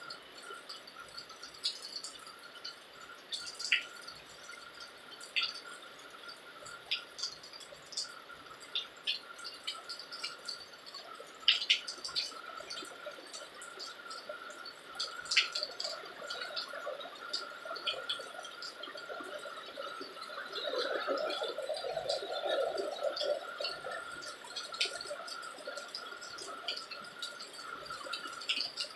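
Light rain, with scattered drops dripping and tapping irregularly. A faint steady high tone runs underneath, and a soft rush of noise swells briefly about two-thirds of the way through.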